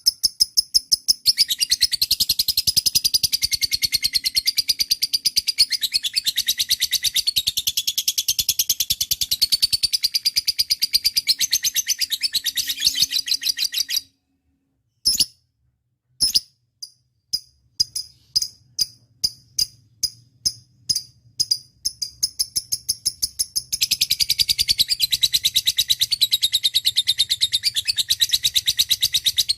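Lovebird singing a long, very fast, rattling chatter of high chirps. It breaks off about halfway through with a moment of dead silence. Spaced single chirps follow for several seconds before the rapid chatter starts again near the end.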